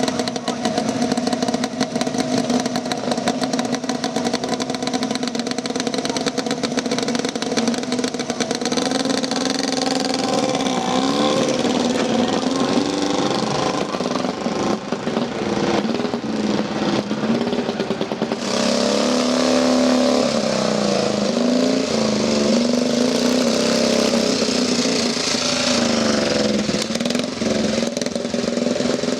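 Motorcycle engines running at a steady pitch, then revving up and down from about ten seconds in, with the sound getting louder and brighter about eighteen seconds in.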